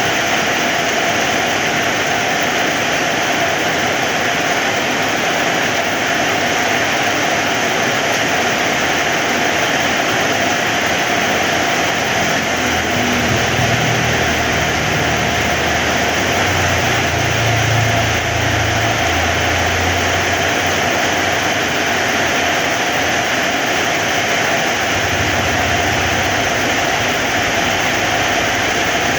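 Heavy rain falling steadily as an even hiss, with a low rumble swelling and fading for several seconds around the middle.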